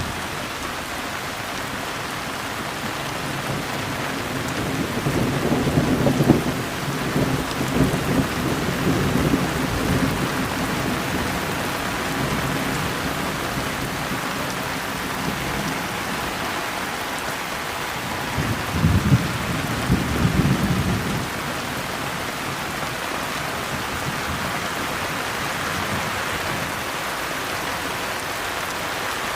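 Steady rain with two low rolls of thunder, a longer one about five seconds in and a shorter one about eighteen seconds in.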